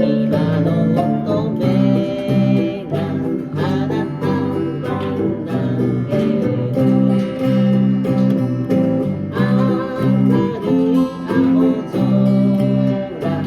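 Small band playing an upbeat song: strummed acoustic guitar chords under a moving melody line.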